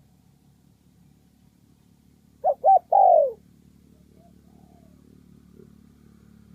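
Spotted dove giving one cooing call about two and a half seconds in: two short coos, then a longer coo that falls in pitch.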